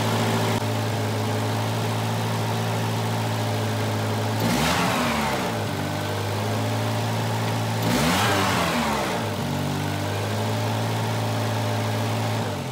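Volvo 240's B230F four-cylinder engine idling steadily, with the idle speed flaring up and dropping back twice, about three and a half seconds apart. This hunting idle is a symptom of a failing or sticking idle air control valve.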